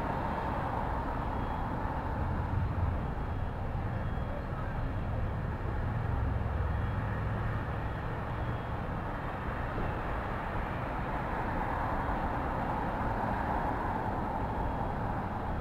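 City street ambience: a steady rumble of traffic, with the low end swelling as vehicles pass a few seconds in and again about six to eight seconds in.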